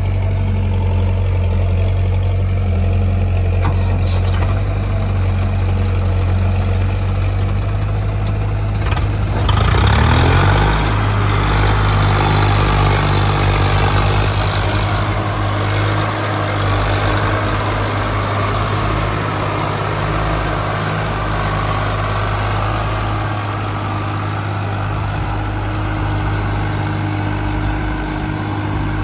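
Heavy diesel engine running steadily, then revved up about ten seconds in with a rising pitch and a louder clatter. It is held at higher speed for a few seconds before easing back.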